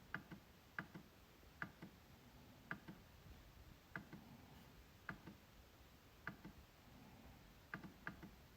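MacBook trackpad being clicked, each press followed by its release about a fifth of a second later, a pair roughly every second; the clicks are faint.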